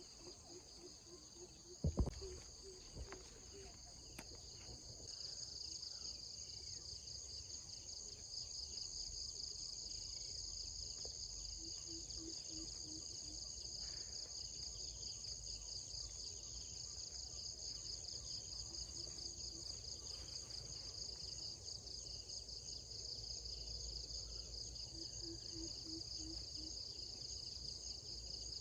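A chorus of insects, a high steady pulsing buzz that swells a little about five seconds in. One sharp knock comes about two seconds in.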